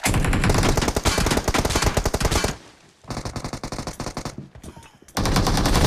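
Rapid automatic gunfire from a shooter video game's sound effects: a long burst, a shorter, softer burst about three seconds in, and another loud burst starting about five seconds in.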